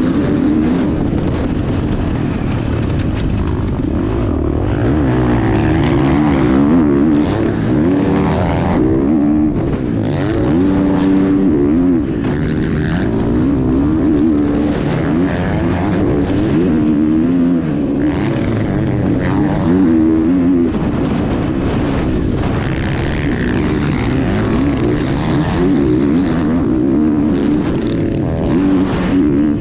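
Dirt bike engines racing around a track, their pitch rising and falling again and again as the riders work the throttle and shift.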